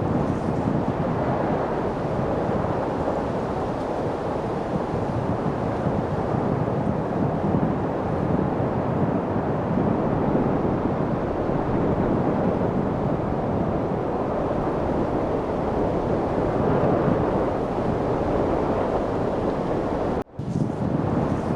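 Steady light wind noise, a rushing that slowly swells and eases, with a momentary drop-out near the end.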